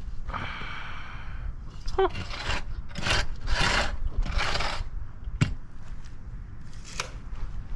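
A series of rough scraping or rubbing strokes, about five of them, each under a second long, then a couple of sharp clicks.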